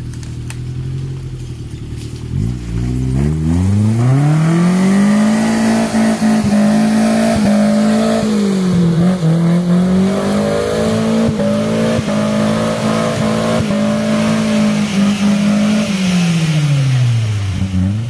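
Off-road 4x4's engine idling, then revved up sharply about two seconds in and held at high revs under load as the vehicle works through deep mud, with a brief dip in the middle, before the revs fall back near the end.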